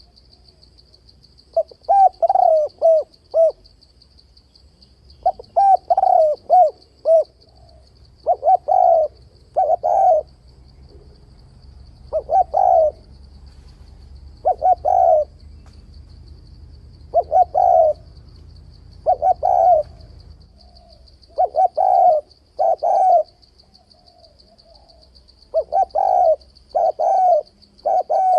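Spotted dove cooing: short phrases of two to four hooting notes, repeated every two or three seconds, the territorial call used to lure a rival dove to a fighting trap. A steady high-pitched buzz runs underneath.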